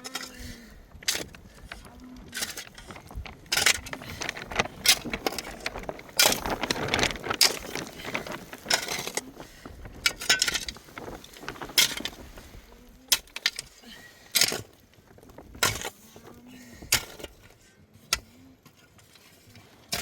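Irregular clatter of sharp knocks and clinks, with a few short voice-like sounds in between.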